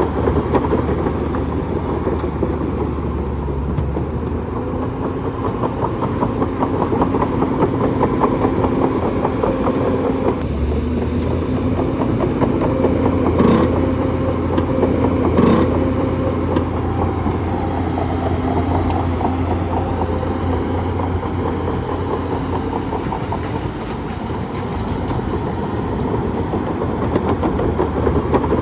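Bulldozer's diesel engine running steadily, with two sharp metallic knocks about two seconds apart near the middle.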